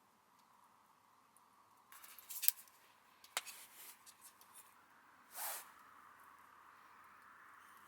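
Camera gear and lens filters being handled at close range: a few sharp clicks and light rustles, then a soft swish about five seconds in.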